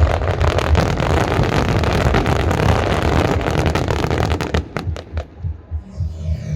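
Aerial fireworks going off in a dense barrage of crackling bursts and bangs, which thins to a few single pops about five seconds in.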